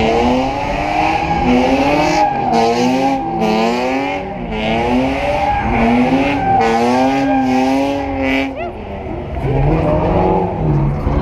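A car doing a burnout at high revs, the engine's pitch swinging up and down again and again over the hiss and squeal of spinning tires. About eight and a half seconds in the revs drop briefly, then the engine carries on at a lower pitch.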